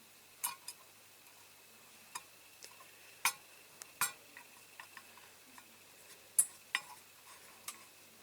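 Irregular light clicks and taps of small screws and a screwdriver against a diecast model's base plate as the screws are worked in, with a few sharper clicks among them.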